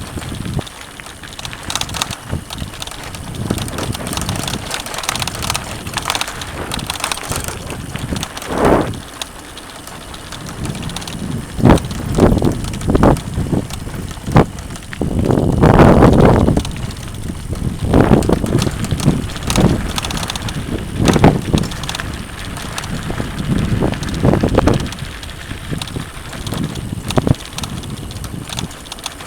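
Mountain bike riding over a rough dirt trail: continuous tyre and rattle noise with wind on the microphone, broken by irregular thumps and clatters as the bike hits bumps, the loudest about halfway through.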